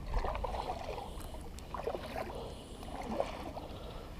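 Kayak paddle strokes in the water, a swish and splash about every one and a half seconds.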